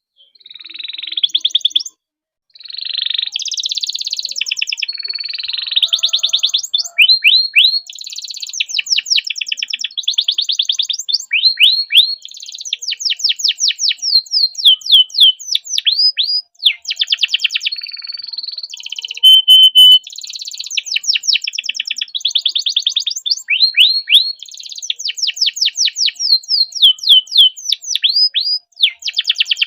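Domestic canary singing a long, continuous song of rapid trills: runs of quick repeated high notes that change to a new phrase every second or two, with one short break about two seconds in.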